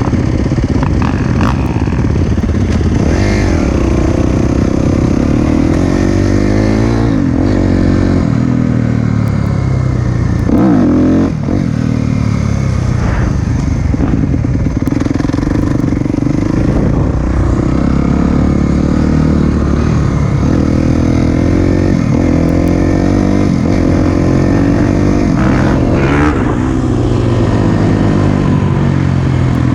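Four-stroke single-cylinder dirt bike engine under riding load, revving up and rolling off again and again as it climbs and drops in pitch through the gears on a trail.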